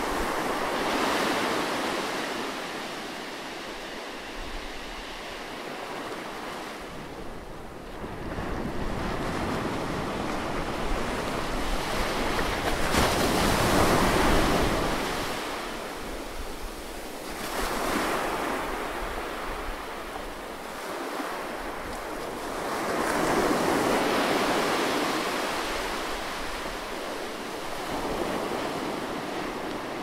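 Ocean waves breaking and washing in, a steady rush of surf that swells and ebbs every several seconds, the biggest wave about halfway through.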